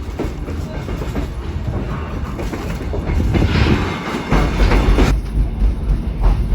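Kuranda Scenic Railway train running, its wheels clattering over the rail joints with a steady rumble; the rumble grows heavier and louder about four seconds in.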